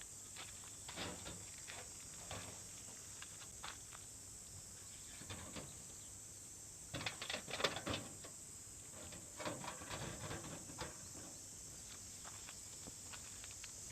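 Campfire crackling faintly with irregular pops and snaps, busiest about halfway through, over a steady high hiss.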